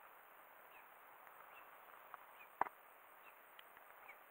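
Quiet, with faint short chirps from a bird outside repeating about once a second, and one sharp click about two and a half seconds in.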